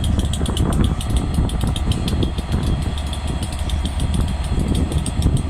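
Class 67 diesel locomotive idling at a standstill, its EMD V12 two-stroke engine giving a steady low drone, with a stream of light ticks above it.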